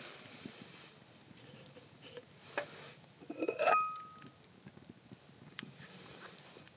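Cookware handled during camp cooking: a few light knocks and one loud metallic clink about three and a half seconds in, which rings on briefly as a clear tone.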